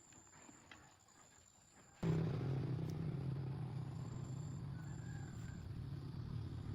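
Faint quiet at first, then about two seconds in a steady engine-like running sound starts abruptly and continues, with a low even hum under a noisy haze.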